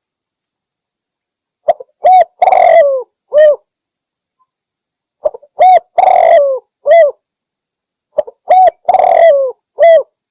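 Spotted dove (derkuku) cooing: three repeated phrases about three seconds apart, each made of short coos, one longer coo and a final falling coo, with dead silence between phrases.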